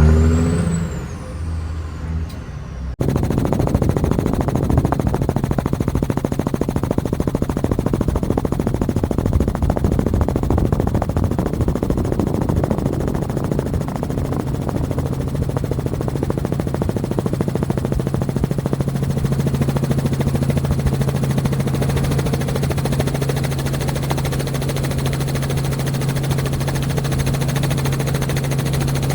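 A heavy truck engine for the first few seconds, then, after an abrupt cut about three seconds in, a helicopter's fast rotor chop over a steady engine drone, heard close up.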